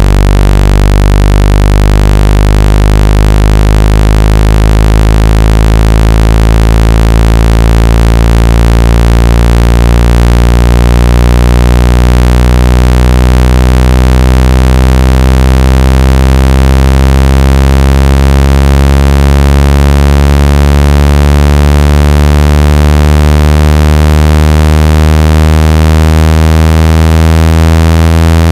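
Electronic water-ejection tone for clearing water from a phone speaker: a loud, steady low buzzing tone with many overtones, slowly rising in pitch.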